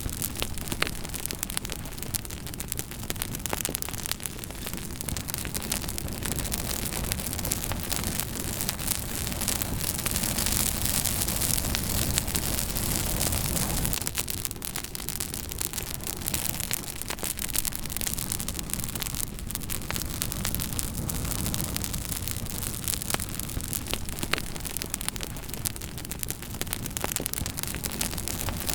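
Campfire crackling: frequent sharp pops and snaps of burning wood over a steady rushing hiss of the flames.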